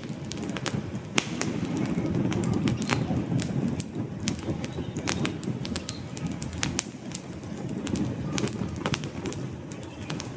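Wood fire burning in a fireplace: logs crackling and popping in sharp, irregular snaps over a steady low rumble of flame.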